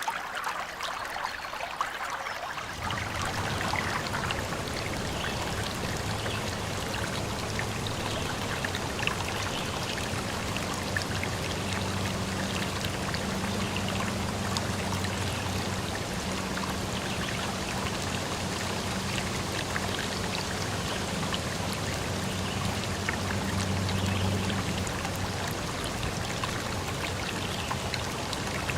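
Stream water flowing steadily, with a continuous rushing and trickling. About three seconds in, the sound grows fuller in the low end and a faint steady low hum comes in under the water.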